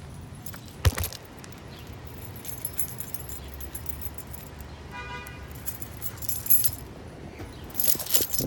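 Suzuki DR650 single-cylinder engine running low and steady under metallic rattling and clinking, with a sharp knock about a second in and a burst of clatter near the end. A short high beep sounds about five seconds in.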